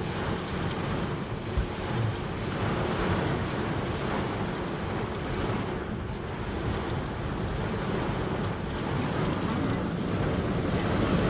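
Storm rain and wind beating on a van, a steady rushing noise that swells and eases, with one short knock about a second and a half in.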